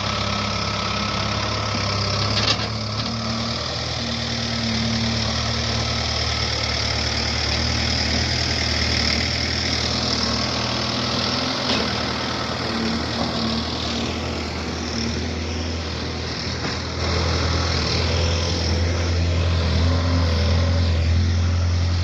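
JCB backhoe loader's diesel engine running steadily under work, with a sharp knock a couple of seconds in; the engine grows louder about three-quarters of the way through.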